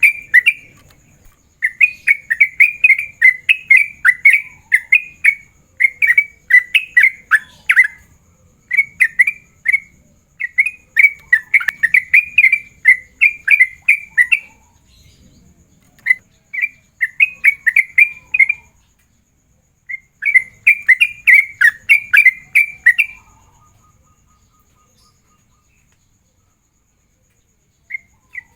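Sooty-headed bulbul (trucukan) singing its rapid 'ropel' challenge song, used to call out rival males: quick runs of bubbly notes in phrases of a few seconds with short pauses. The bird falls silent for about four seconds near the end, then starts again.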